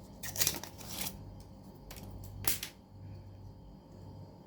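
Packaging being handled and opened: short rustles and crackles about half a second, one second and two and a half seconds in, over a low steady hum.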